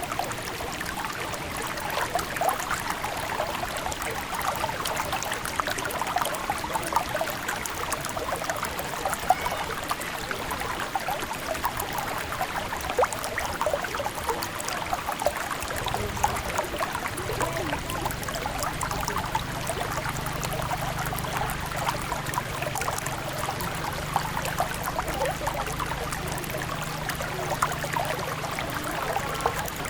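River water running and babbling over stones, a steady rush full of small splashes. About halfway through a low steady hum joins it.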